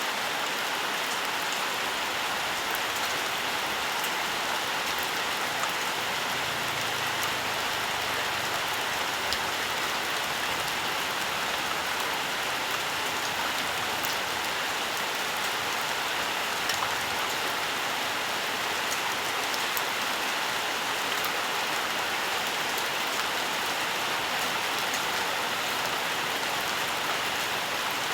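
Steady rainfall, an even hiss with scattered drops pattering on surfaces.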